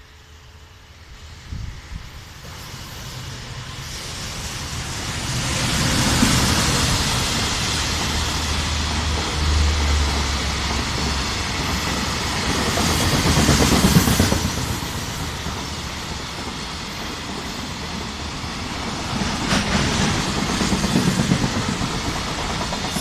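Freight train hauled by an EF200 electric locomotive passing by. It grows louder over the first six seconds as it approaches, then stays loud as the wagons run past on the rails.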